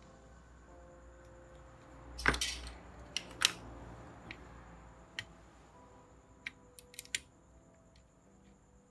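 Sharp clicks and knocks from tools and parts being handled while a processor is taken off a laptop motherboard. The loudest knock comes about two seconds in, then a scatter of lighter clicks.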